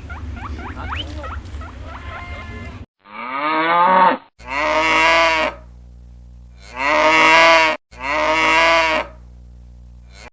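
A cow mooing four times, each moo about a second long, with abrupt cuts between them. Before the first moo, about three seconds of quick, short chirping calls.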